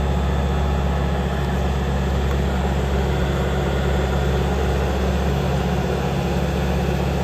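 An engine running steadily at an even speed: a low, constant drone with no revving or change.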